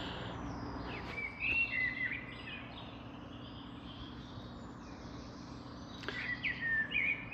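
Wild birdsong: bursts of quick, high chirping and warbling phrases about a second in and again near the end, over a faint steady low hum.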